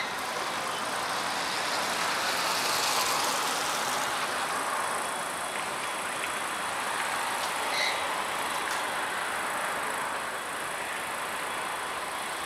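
A train running through the station with a steady rushing noise that swells a few seconds in. Two short high pips, one at the start and one about eight seconds in.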